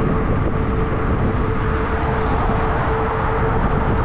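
Wind rumbling on the microphone of a fat-tire e-bike riding at about 20 mph, with a steady hum underneath.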